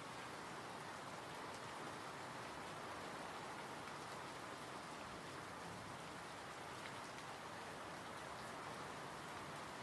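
Steady, gentle rain falling, an even hiss with fine drop ticks.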